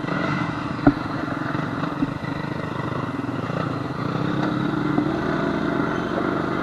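ATV engine running steadily as it rides over a rough trail, with a sharp knock about a second in and a few lighter clatters.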